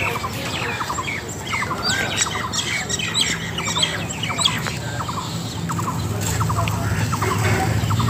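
Birds calling in short squawks and chirps, some in quick runs of three or four notes, over a steady low hum that grows louder in the second half.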